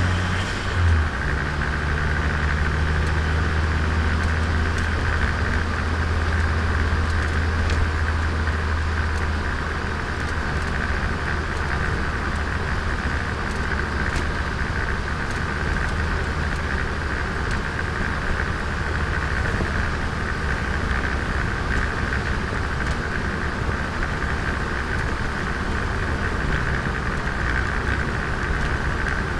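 Turbocharged Nissan Micra being driven, heard onboard: a steady low engine drone for the first nine seconds or so, which then drops away, leaving mostly an even road and tyre noise.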